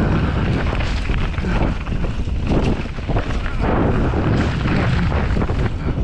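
Wind rushing over the microphone of a mountain biker's camera at speed. Under it are the tyres rolling on a dirt trail and short irregular knocks and rattles of the bike over bumps.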